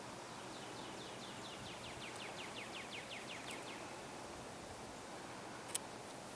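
A bird singing a quick trill of falling chirps, about seven a second, for roughly three seconds, over faint steady outdoor background noise. A single sharp click comes near the end.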